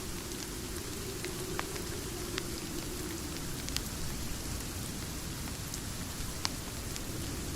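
Steady rain with a low, even rush. A few sharp single crackles from a wood fire are scattered through it, about four in all.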